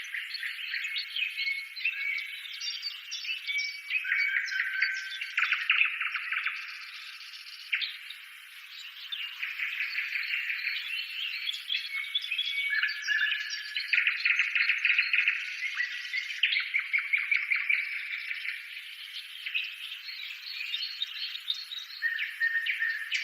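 Many birds chirping, trilling and whistling over one another in a continuous chorus, thin-sounding with no low end.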